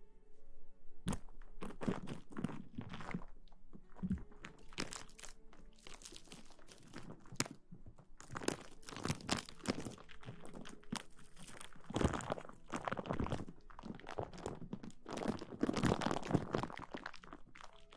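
Close-miked ASMR rustling: irregular crinkly, crackling scratches and brushing strokes on the microphone, coming in uneven clusters, with the densest runs about two-thirds of the way through.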